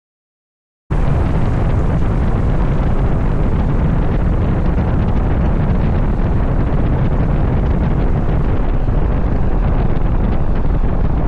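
Loud, steady wind rumbling on the microphone, cutting in abruptly about a second in after near silence.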